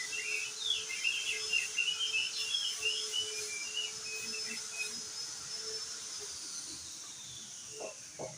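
Crested white-eye (opior jambul) singing a fast, chattering run of short high chirps that stops about four and a half seconds in, over a faint steady hum. Two soft knocks come near the end.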